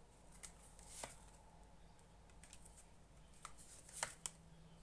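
Tarot cards being handled, with a few faint separate clicks and snaps of card against card.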